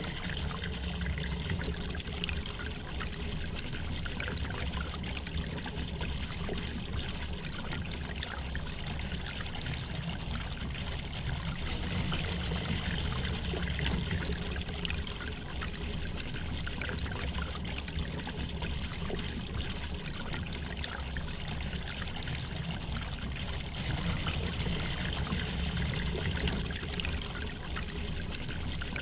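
Shallow river flowing gently: steady rushing water with a continuous trickling and bubbling over it.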